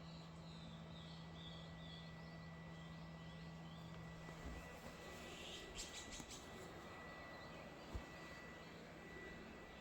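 Faint outdoor quiet with small birds chirping, mostly in the first couple of seconds. A low steady hum stops about halfway through, there are a few clicks a little after the middle, and a single short thump comes near the end.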